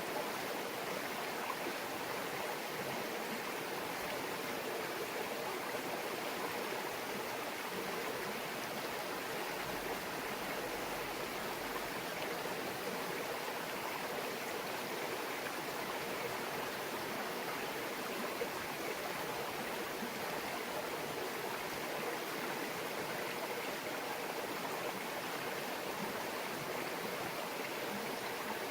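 A small stream babbling over rocks: steady, even rushing and trickling of shallow flowing water.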